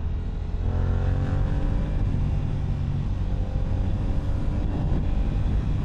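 Yamaha R7's CP2 parallel-twin engine through an Akrapovič exhaust, rising in pitch as it accelerates about half a second in, then running steadily.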